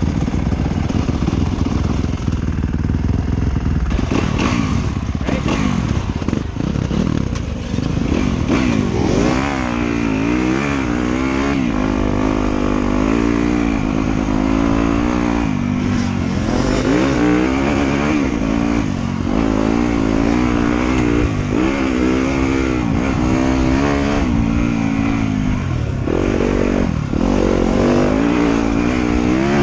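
Off-road motorcycle engine running under load, its pitch rising and falling again and again as the throttle is opened and closed, over a heavy low rumble.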